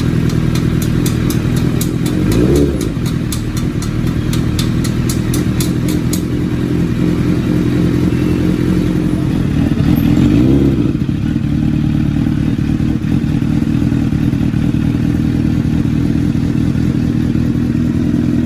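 Honda CBR1000's inline-four engine idling through an SC-Project aftermarket exhaust, blipped briefly twice, a couple of seconds in and about ten seconds in. A light, regular ticking, about three to four a second, runs through the first six seconds.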